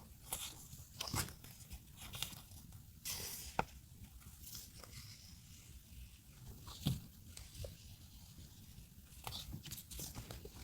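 Paper and stationery being handled at close range: scattered rustles, crinkles and light taps, with a louder rustle about three seconds in and a few sharp clicks.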